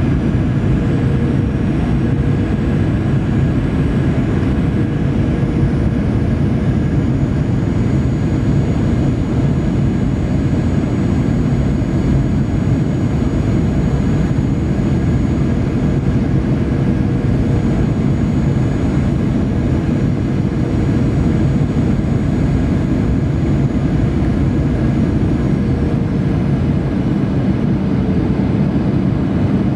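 Jet airliner cabin noise on final approach to landing: a steady, loud rumble of engines and rushing air, with a few faint steady whine tones above it.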